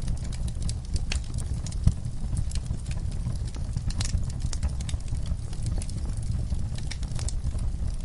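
Wood campfire crackling: irregular sharp pops and snaps over a steady low rumble, with one louder pop a little under two seconds in.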